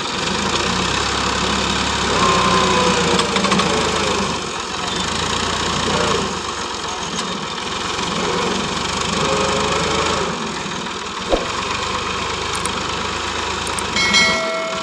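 Tractor diesel engine running hard under load, straining in first low gear. A brief high pitched tone sounds near the end.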